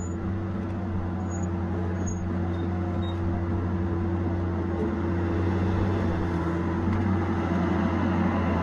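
Diesel engine of a Tigercat 870C feller buncher running steadily under work with a deep, even hum, growing slightly louder in the second half.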